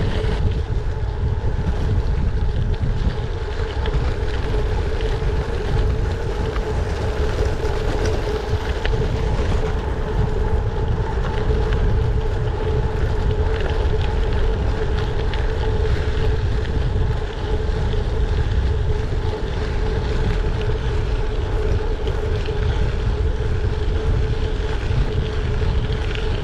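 Wind rushing over a GoPro's microphone as a gravel bike rolls along at speed: a steady heavy rumble with a constant hum from the moving bike.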